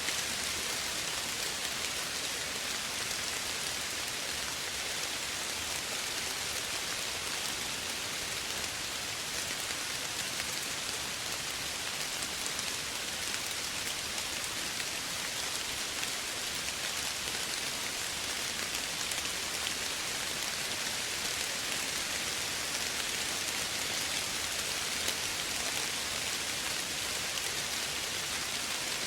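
Steady soft rain falling, an even hiss of fine pattering drops.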